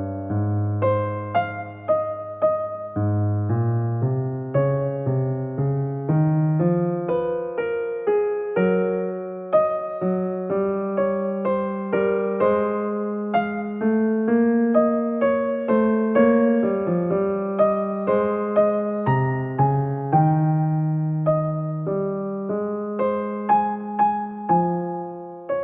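Background piano music: a steady stream of gently struck notes over slow bass notes.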